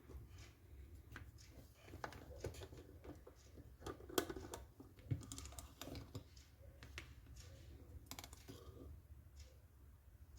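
Irregular light clicks and taps of small parts of an airsoft M14 being handled and taken apart, with a sharper knock about four seconds in.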